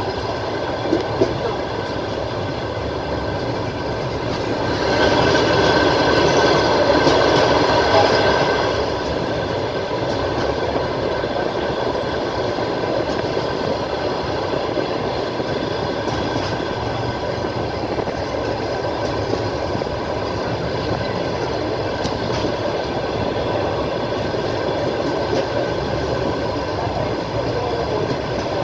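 Passenger train running along the track, heard from a coach window: steady wheel and rail noise with a high ringing wheel squeal that grows louder for a few seconds about five seconds in.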